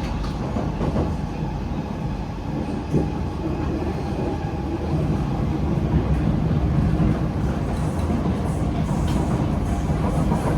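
SMRT C151B metro train running between stations, heard inside the cabin: a steady rumble of wheels on rail with a faint steady whine. One short click comes about three seconds in.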